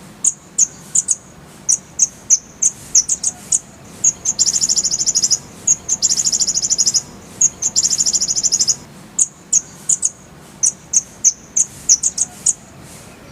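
Kolibri ninja (a sunbird) singing: sharp, high chip notes repeated at an uneven pace, broken by three fast rolling trills about four, six and eight seconds in.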